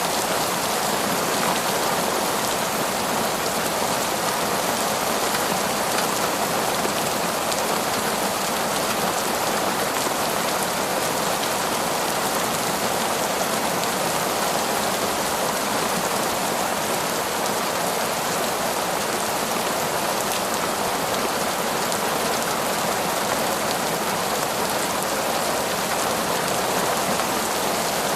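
Heavy, steady downpour of rain falling on forest foliage, a constant even hiss of drops with no thunder.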